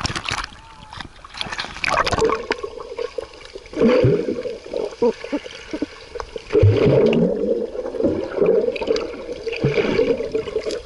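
Sea water splashing and gurgling close to the microphone, coming in uneven bursts every second or two.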